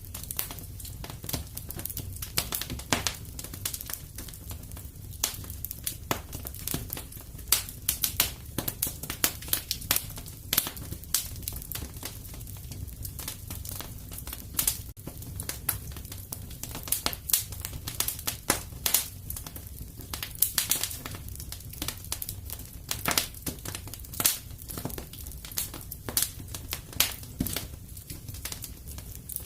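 Wood fire crackling in a fireplace: irregular sharp pops and snaps, some louder than others, over a steady low rumble of the burning.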